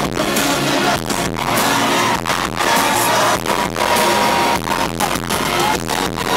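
Live pop band music played through a stadium's loudspeakers, with a steady beat and a long held note in the middle, and no sung words.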